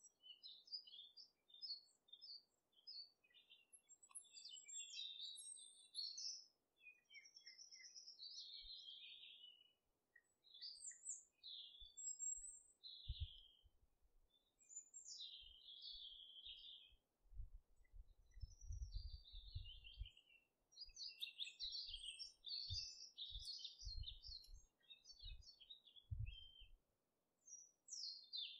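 Birds chirping and singing in quick, overlapping phrases, with some dull low thumps in the second half.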